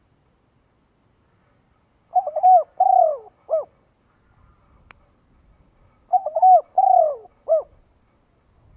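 Bird calling: a short phrase of several falling notes, given twice about four seconds apart.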